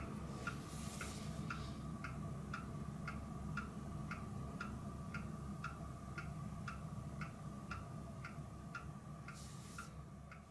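Steady, even mechanical ticking, about two and a half ticks a second, over a low continuous hum.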